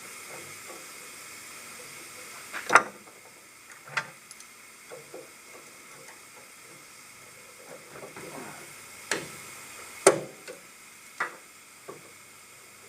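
Tools and parts clinking and knocking about eight times at uneven gaps during leaf-spring work, over a steady background hiss. The two loudest knocks come about three seconds in and about ten seconds in.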